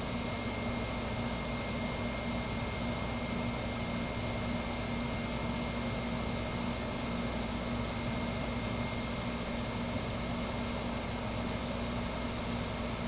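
8,000 BTU window air conditioner running with its compressor on: steady fan airflow with a constant low compressor hum and a faint steady high tone. The compressor is building refrigerant pressure just after start-up, before the unit is blowing cold.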